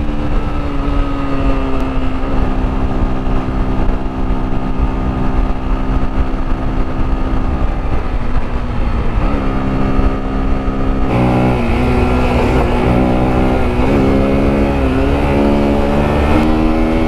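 Motorcycle engine running under way, its note fairly steady at first. From about eleven seconds in the revs rise and fall repeatedly.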